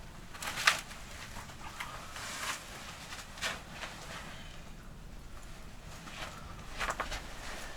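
Scattered clicks and rustles of hands handling gear: a sharp click about two-thirds of a second in, a few softer scrapes in the middle, and a short cluster of clicks near the end.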